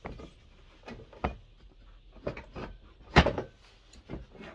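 Knocks and clicks of parts and tools being handled while a diesel heater is taken apart, a string of separate knocks with the loudest about three seconds in.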